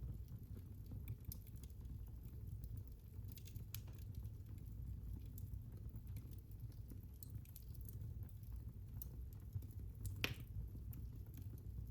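Fire crackling in a fireplace: scattered small pops and ticks over a low steady rumble, with one sharper pop about ten seconds in.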